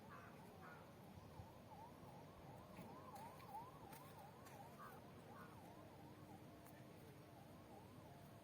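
Faint outdoor bird calling: a quick run of short rising-and-falling whistled notes, about three a second, with a few crow caws among them.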